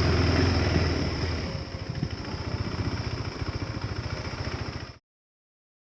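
KTM 390 Adventure's single-cylinder engine running, dropping about a second and a half in to an even, pulsing idle; the sound cuts off abruptly about five seconds in.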